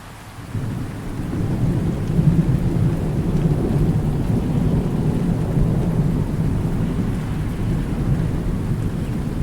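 Thunder rumbling over steady rain: after a brief dip right at the start, a low roll builds over the first couple of seconds and rolls on to the end.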